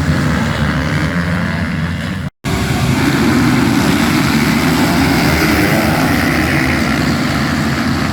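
Motocross bikes racing, engines running hard with changing revs. The sound cuts out completely for a moment about two seconds in.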